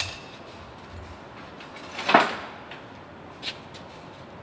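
A few short metallic knocks and clanks of tools and parts being handled, the loudest a brief clatter about two seconds in, over a low steady background.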